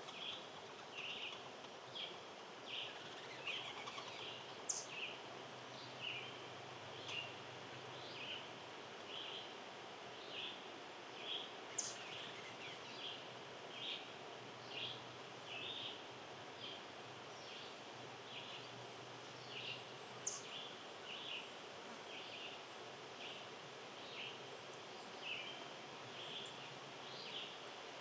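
Small birds chirping: a short chirp repeated about once or twice a second, with three sharp, high chips spaced several seconds apart, over a steady outdoor hiss.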